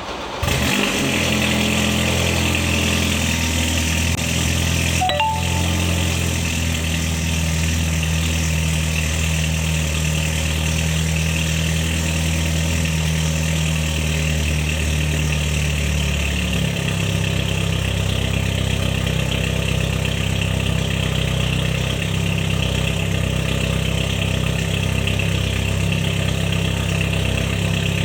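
BMW 520i F10 engine starting from cold: it cranks and catches right at the start, then runs at a fast, steady cold-start idle. The idle steps down a little past halfway as the engine settles. A brief click comes about five seconds in.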